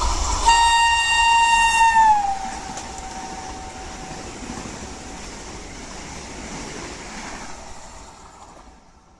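Indian Railways express train sounding its horn as it passes, one long blast whose pitch drops as the train goes by. The rushing noise of the passing train follows, then fades away near the end.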